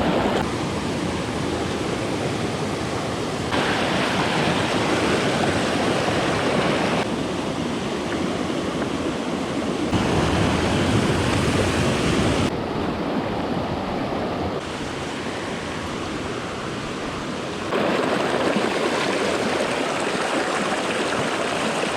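Small mountain stream rushing and splashing over rocks, a steady wash of water noise. Its loudness and tone jump abruptly several times.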